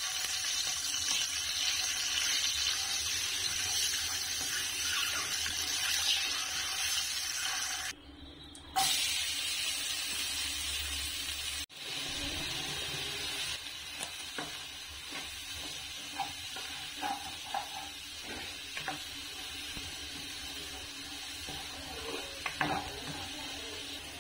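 Boiled eggs sizzling in hot oil in a kadai, a steady hiss. After a cut about two-thirds of the way through, chopped onions fry more quietly, with scattered clicks and scrapes in the pan as green chillies go in.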